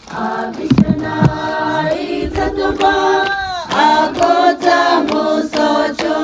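A group of people singing together in unison, several voices joined like a small choir.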